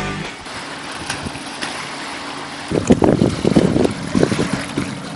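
Wind buffeting the microphone outdoors as a steady rushing noise, with stronger gusts for a couple of seconds around the middle.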